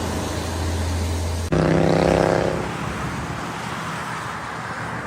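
Heavy truck engine running with a steady low drone, cut off abruptly about a second and a half in by the engine note of another passing truck that fades away, leaving road noise.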